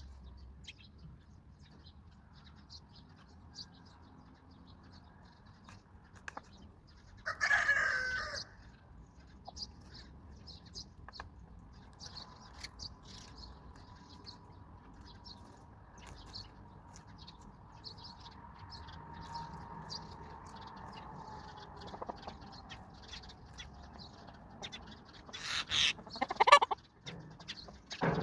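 Chickens calling: a loud call a little over a second long about seven seconds in, and more loud calls near the end. Small birds chirp briefly and often throughout.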